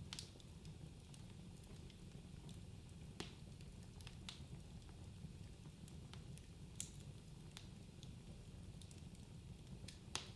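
Wood fire burning in a fireplace: a low steady rumble of flames with scattered sharp crackles and pops, the loudest just after the start, a little after three seconds, near seven seconds and just before the end.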